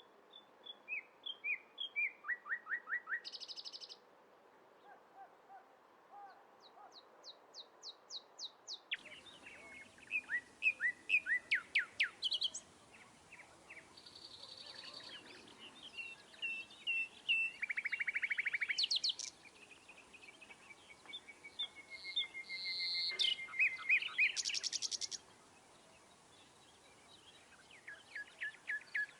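Several songbirds singing and calling: quick chirps, fast trills and a drawn-out whistle near the middle. The background hiss changes abruptly about nine seconds in, as one recording gives way to another.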